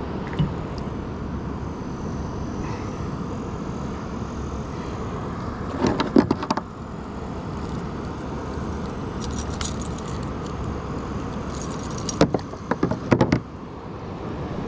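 A steady rumble in the background, with two bursts of rattling metallic clatter, about six seconds in and again near the end, as a caught bass and its hooked lure are handled in a kayak.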